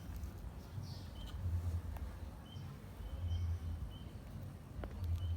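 Domestic cat purring close to the microphone: a low rumble that swells and fades in slow pulses about every two seconds.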